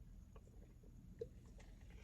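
Near silence: faint low background rumble with a few soft, scattered clicks, the clearest just past the middle.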